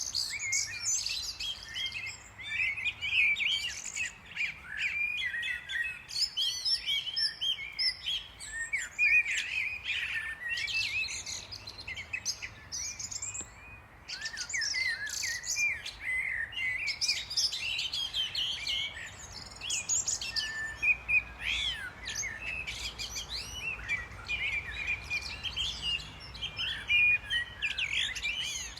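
Many small birds chirping and twittering at once, their short calls overlapping, with a brief lull about halfway through.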